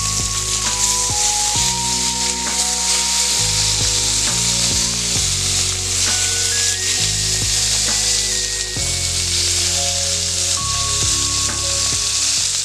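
Wild duck breasts searing in butter and their own rendering fat in a hot skillet, a loud, steady sizzle as the fatty skin renders. Background music with low notes runs underneath.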